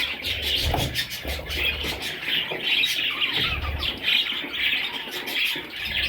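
Budgerigars chattering nonstop, a dense mix of overlapping chirps and warbles.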